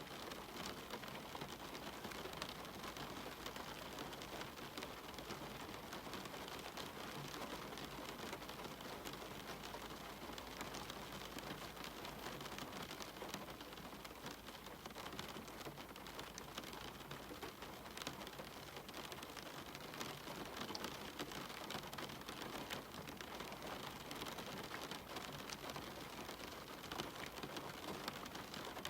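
Steady rain falling on a cabin window, with many separate drops ticking over an even hiss.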